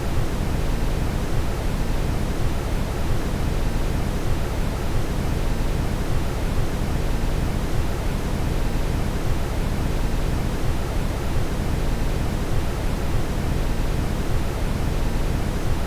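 Steady brown noise: an even, deep hiss with most of its energy in the low end, unchanging throughout.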